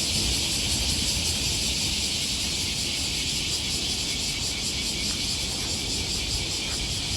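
Cicadas calling in a dense, steady chorus of high, hissing drone, over a low rumble.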